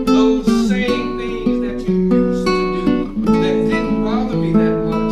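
Guitar playing a quick run of plucked notes.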